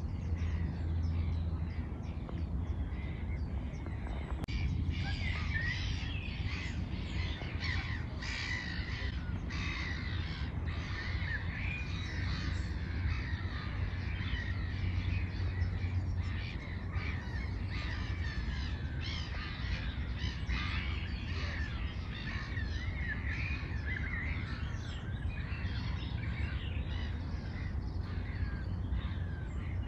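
Many birds calling and chirping at once, a busy chorus that picks up about four seconds in, over a steady low rumble.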